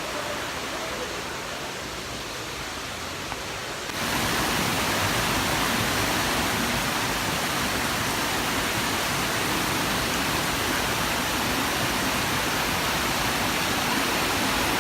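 Steady rush of falling water from a mountain waterfall. It turns abruptly louder and brighter about four seconds in, then holds steady.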